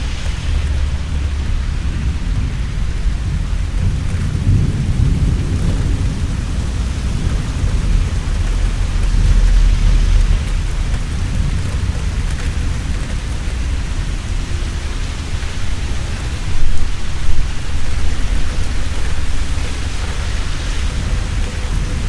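Heavy rain falling steadily, with rolling thunder rumbling underneath that swells about halfway through. A louder thunder burst comes near the end.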